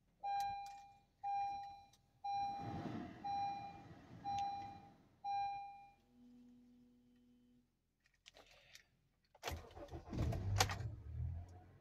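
A Honda CR-V's dashboard chime sounds six times, about once a second, followed by a short lower beep. About nine and a half seconds in, the CR-V's four-cylinder engine cranks and catches on a cold start, the loudest sound here.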